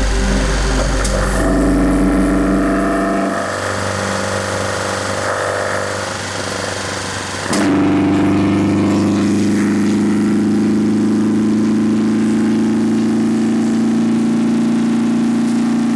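Toyota 4K four-cylinder engine of a 1981 Corolla KE70 running. About seven and a half seconds in the sound changes abruptly to a steady higher engine note that is held, creeping slightly upward.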